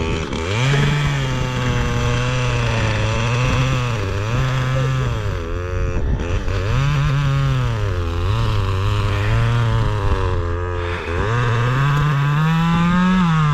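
Dirt bike engine riding single-track trail, its revs rising and falling again and again with the throttle, climbing highest near the end.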